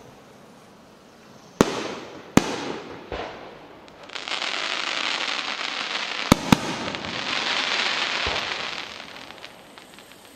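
Fireworks display: two sharp bangs of shells bursting, then about five seconds of dense hissing crackle from crackling effects, with two more quick sharp reports in the middle, fading near the end.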